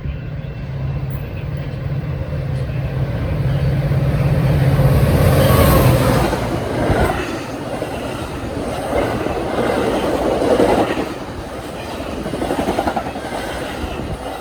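A diesel-hauled train passing close by on the main line: a low engine hum that peaks about five or six seconds in, then the cars rolling past with the wheel noise swelling and fading every second or two.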